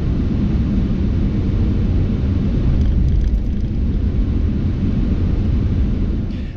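Truck driving along the road: a steady low rumble of engine and road noise.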